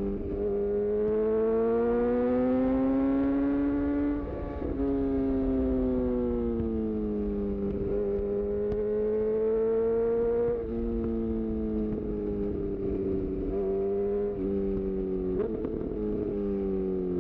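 2018 Honda CB1000R's inline-four engine through a full-system Black Widow exhaust, pulling under acceleration with the revs climbing. About four seconds in there is a brief cut as it shifts up, the pitch stepping down before it climbs again, then another drop near ten seconds, after which it runs at steadier revs with a couple of short breaks and the pitch falling near the end.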